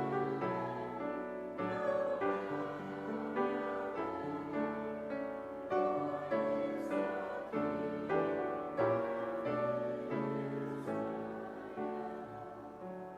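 Piano music played slowly, chords changing every second or so, fading out near the end.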